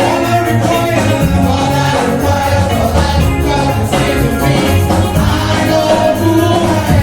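Gospel vocal group singing with instrumental backing and a steady beat.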